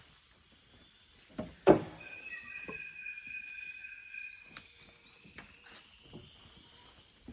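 Rainforest animal sounds: a long, steady, high whistling call with a second lower tone running alongside it for about three seconds, and a few short chirps. A heavy thump just before the call is the loudest sound.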